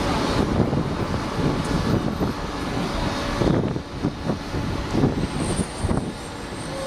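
A large vehicle running close by: a dense engine and road rumble with irregular low knocks.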